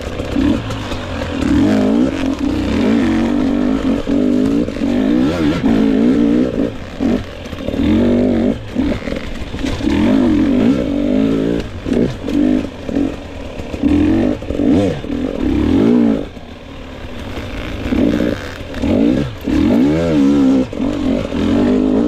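2022 GasGas EX 250 two-stroke dirt bike engine being ridden hard off-road, its pitch climbing and falling again and again as the throttle is worked, with a brief let-off about two-thirds of the way through.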